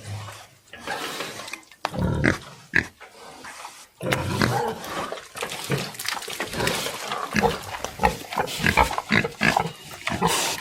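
Pigs grunting in many short calls, sparse at first and coming thick and fast from about four seconds in.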